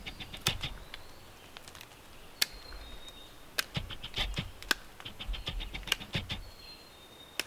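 Knife whittling the end of a wooden stick: quick short shaving and scraping strokes with sharper clicks among them, rounding the end off so it has no sharp edges.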